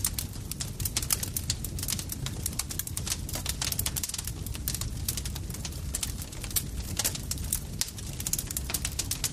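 Campfire crackling: a dense, irregular run of sharp pops and snaps over a low, steady rumble of burning wood.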